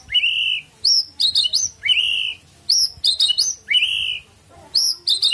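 White-rumped shama (murai batu) singing, repeating a phrase of quick high chirps followed by a longer, lower arched whistle about every two seconds.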